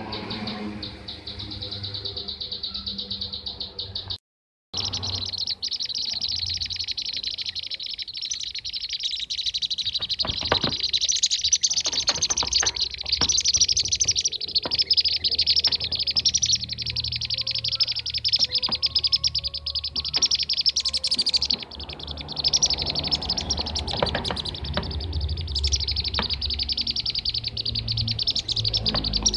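Bee-eaters (kirik-kirik) calling in a dense, continuous stream of rapid high chirps, played as a bird-lure recording. The sound cuts out completely for about half a second a little after four seconds in.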